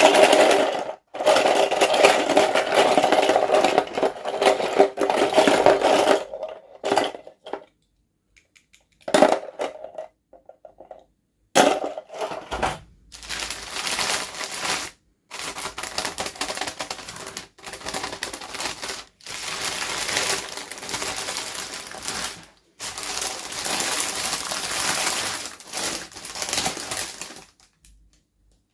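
Doll packaging being handled and opened: plastic and cardboard rustling, crinkling and clicking in bursts of a second or several, with short pauses between.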